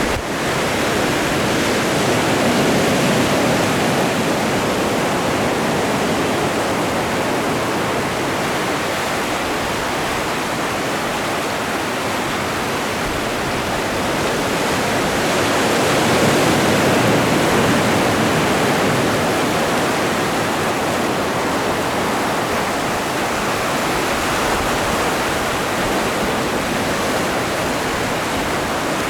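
Atlantic Ocean surf: a continuous rush of breaking and washing waves, swelling louder about three seconds in and again about halfway through.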